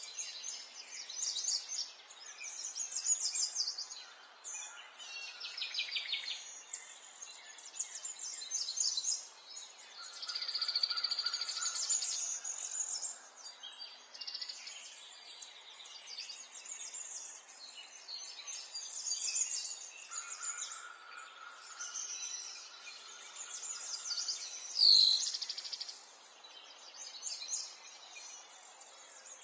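Several songbirds singing and calling at once: overlapping rapid trills and chirps over a steady background hiss. One brief, loud, downward-sweeping sound a few seconds before the end.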